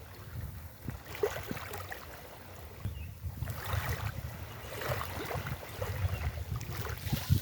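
Sea waves washing onto a beach in several surges, each a rushing hiss full of small crackles, over a constant low wind rumble on the microphone.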